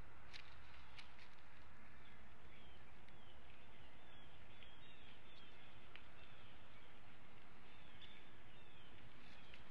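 Steady outdoor hiss with a run of short, high, falling bird chirps repeated every second or so, and a few faint clicks in the first second.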